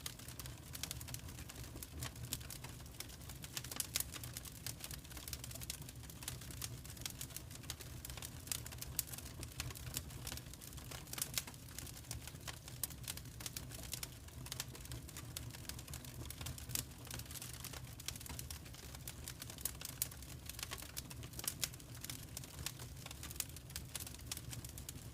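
Fireplace fire crackling, with many small irregular pops over a low steady rumble.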